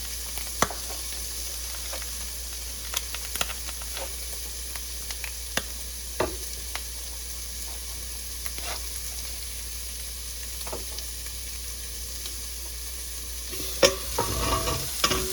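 Eggs frying in butter on an electric griddle: a steady sizzle with scattered sharp pops, and a louder clatter near the end.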